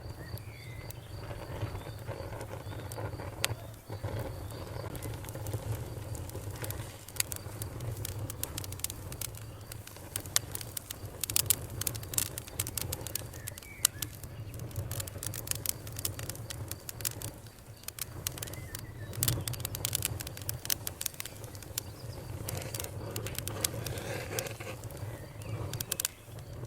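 Campfire crackling and popping, with dense clicks and snaps over a steady low rumble. A cricket trills in the first few seconds and stops, and a bird chirps a few times.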